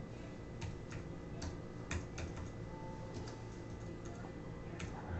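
Scattered keystrokes on a computer keyboard, short taps at irregular intervals, over a faint steady hum.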